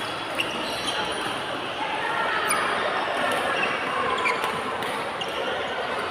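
Badminton rallies in a sports hall: sharp cracks of rackets striking the shuttlecock every second or two over the steady noise of the hall.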